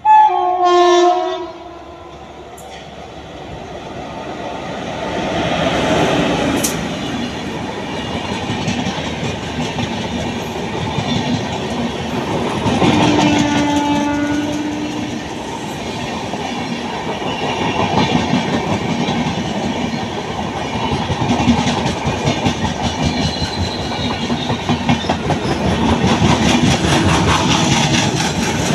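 A loud train horn blast for about a second and a half, then a passenger express's coaches passing close at speed, a steady rumble with the clickety-clack of wheels over rail joints. A second horn sounds about halfway through.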